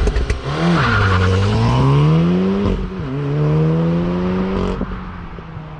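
A car engine accelerating hard through the gears: its pitch climbs steadily, drops sharply at a gear change just before three seconds in, then climbs again until it cuts off near the end.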